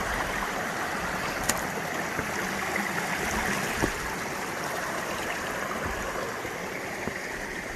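Steady rushing of a small rocky mountain stream and its little waterfalls, with a couple of brief knocks about one and a half and four seconds in.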